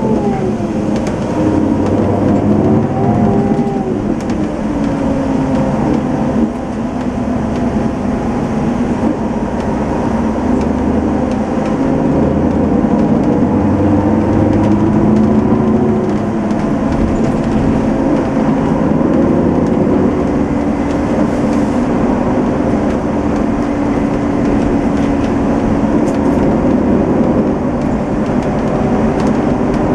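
Setra S 431 DT-L double-decker coach with a manual gearbox, running in service. Its engine note rises and falls twice with changes in speed and gear, then holds fairly steady.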